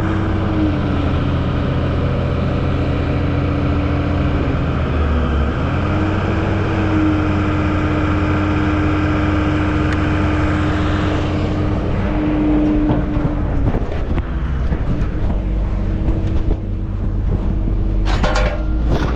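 Vehicle engine running steadily with a held hum that dips briefly about five seconds in, then eases lower after about thirteen seconds. A few short sharp clatters near the end.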